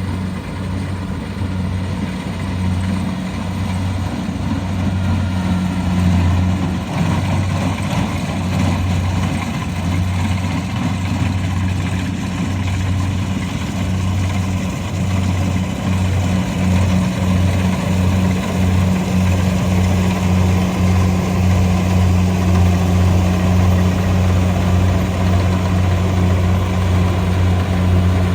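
Engine of a rice combine harvester running steadily under load; its low hum pulses unevenly in places.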